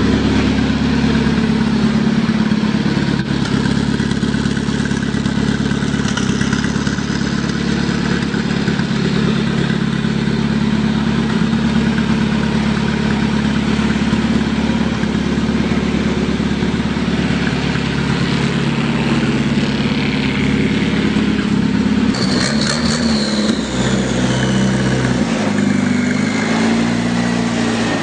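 Turbocharged tractor engine running with a steady note. About 22 seconds in, the note shifts up and down in steps, and a high whine slides down in pitch over a few seconds.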